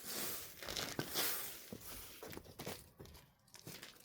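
Rustling and crinkling handling noise: a string of short scraping, tearing sounds, louder in the first half and fading toward the end.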